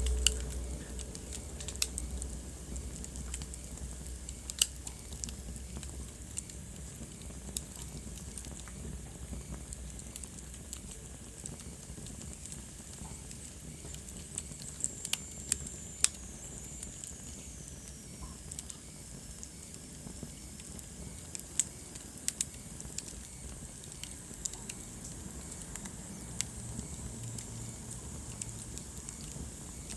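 Wood fire burning in a fireplace, crackling with irregular sharp pops and snaps over a steady hiss. A low rumble fades out over the first few seconds, and a faint high whistle slides downward about halfway through.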